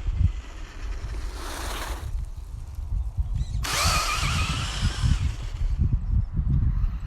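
Traxxas Slash RC short-course truck running, its electric motor whining with a wavering pitch over a hiss, heard in two passes: briefly about a second in, then longer from about three and a half seconds. Wind buffets the microphone throughout.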